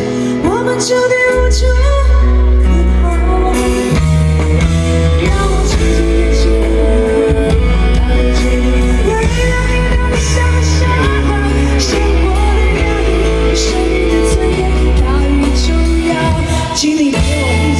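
Live pop-rock band music with a heavy, sustained bass line and singing over it.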